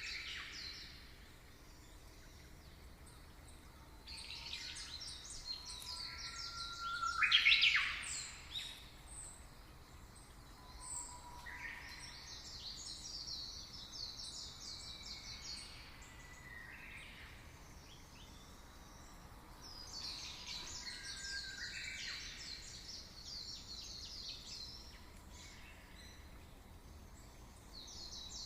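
Songbirds singing: short phrases of fast, high trills repeating every few seconds, with a louder rising call about seven seconds in, over a faint steady hiss.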